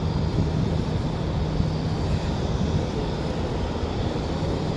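Steady low mechanical rumble with a constant hum, like engine or traffic noise.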